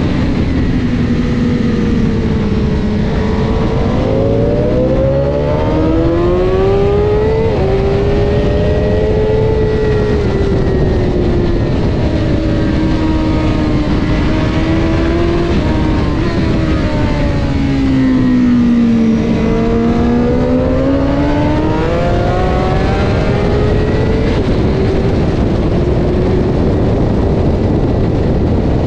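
Honda CBR1000RR superbike's inline-four engine at race pace, its pitch falling as it slows and then climbing hard as it accelerates, twice, with a strong wind rush over the microphone.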